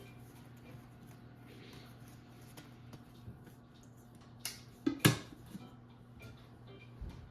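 A few sharp knocks and clatters about four and a half to five seconds in, the loudest near five seconds, over a low steady hum.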